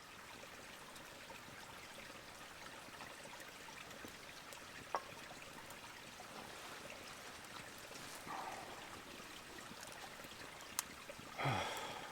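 A small stream trickling and babbling steadily. There is a sharp click about five seconds in, and near the end a short sound that drops quickly in pitch.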